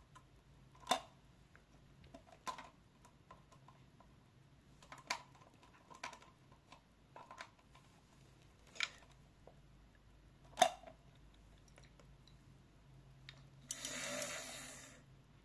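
Handling sounds: about six separate sharp clicks and knocks a second or two apart, then a rustling burst lasting about a second near the end.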